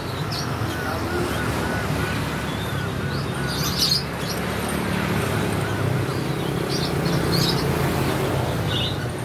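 Birds chirping: short high calls scattered throughout, with runs of quickly repeated arched notes near the start and again about five seconds in, over a steady low hum.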